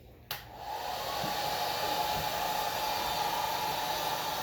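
Handheld hair dryer switched on with a click about a third of a second in, then blowing steadily.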